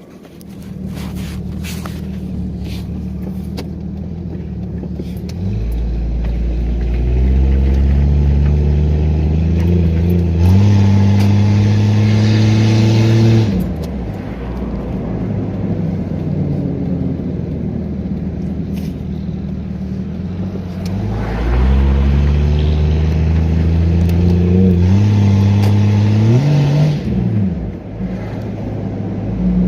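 Jeep Grand Cherokee ZJ's 4.0 straight-six running through its new muffler while driving, heard from inside the cabin with all four windows down. It pulls under throttle twice, the engine note rising in pitch and getting louder, easing off about halfway through and again near the end.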